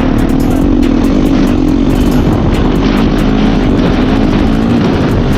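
Yamaha YZ450F single-cylinder four-stroke motocross engine running under steady throttle as the bike is ridden.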